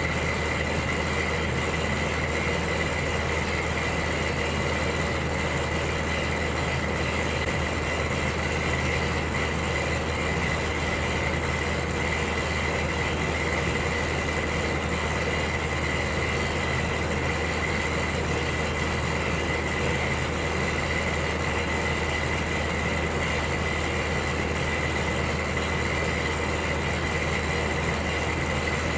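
Electric heater running: a steady hum under an even rushing noise, with a thin steady high whine on top.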